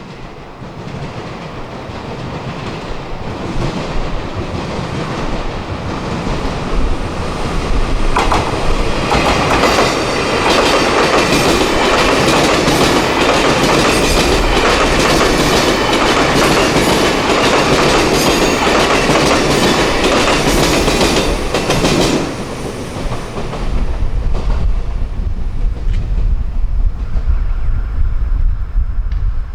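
A train passing close by: its wheels clatter and clack over rail joints, growing from a distant rumble to a loud pass of about a dozen seconds, then dying away.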